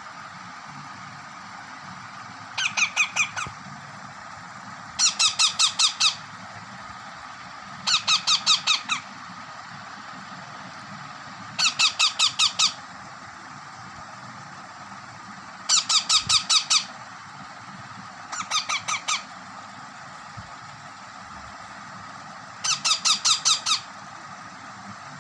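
Baby parrot calling in bursts of rapid, squeaky notes. There are seven bursts, each a quick run of about six to eight harsh notes, coming every three seconds or so.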